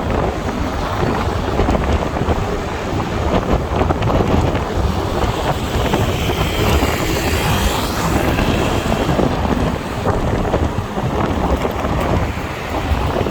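Wind buffeting the microphone on a moving motorbike, over the rumble of engine and road. A higher hiss swells and fades about midway.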